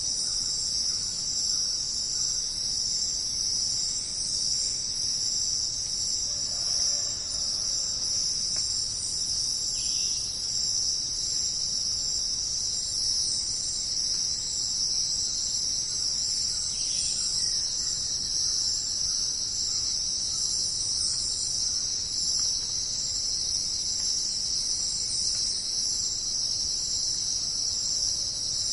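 Crickets chirping in a dense, steady chorus: a continuous high-pitched trill that keeps an even level throughout.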